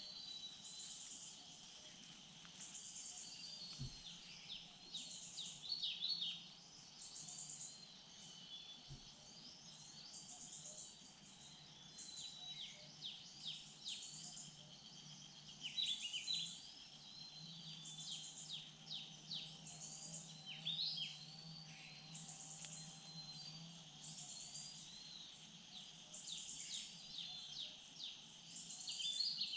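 Forest ambience: an insect gives a high chirp repeating every second or two over a steady insect drone, while small birds call and chirp in quick bursts.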